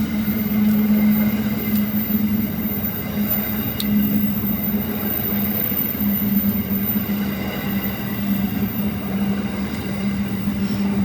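Grain train rolling past: a steady rumbling noise with a low hum and a few faint clicks.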